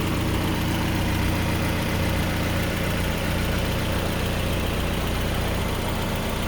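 Engine idling steadily with no lifter tick: the valve lifters are running quiet.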